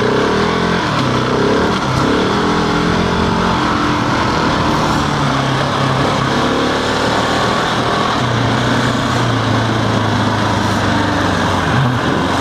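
Husqvarna 701's single-cylinder four-stroke engine running under way on a lane, its pitch shifting up and down with throttle, over a steady rush of wind and tyre noise.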